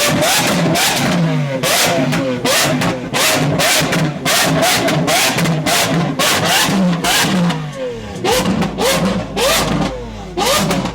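Lamborghini Aventador SV's V12 revved in quick repeated throttle blips through a Sterling Performance exhaust, about two a second, each rising and falling sharply in pitch. The blips space out near the end.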